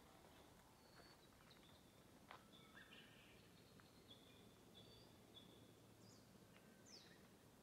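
Faint bird calls: scattered short high whistled notes, with a couple of quick falling whistles near the end, over a low hush.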